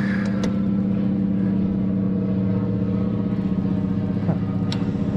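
Steady motor drone holding one pitch, with two sharp clicks, one about half a second in and one near the end.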